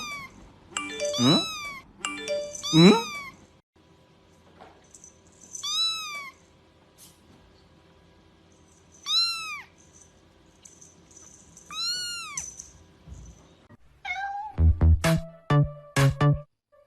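A domestic cat meowing: three separate drawn-out calls, each rising then falling in pitch, after a few quick upward-sliding cries at the start. Music with a thumping beat comes in near the end.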